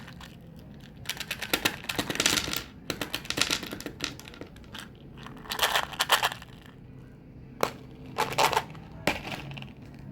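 Gum and mint packaging handled close to the microphone: about six bursts of crisp clicking and crinkling, with one sharp single click near the end.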